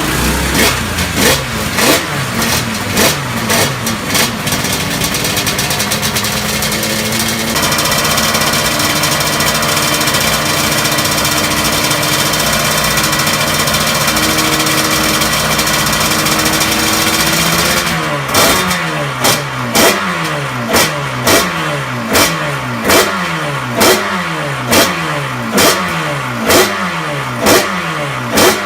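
Two-stroke motorcycle engine being revved: quick throttle blips at first, then held steadily at high revs for about ten seconds, then blipped again in an even rhythm, each rev dropping away before the next.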